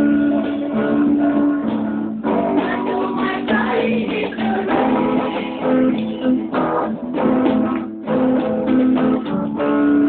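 Unplugged band music led by strummed acoustic guitars, with brief breaks in the strumming about two seconds in and near the end.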